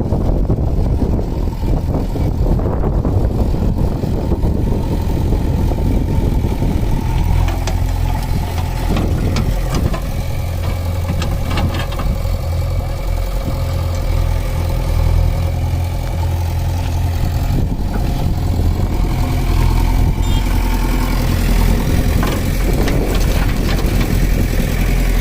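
Heavy diesel machinery engine running continuously. A steady engine note settles in about seven seconds in and holds.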